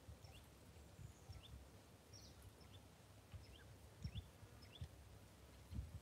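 Faint, scattered short bird chirps over a quiet outdoor background, with occasional low thumps on the microphone.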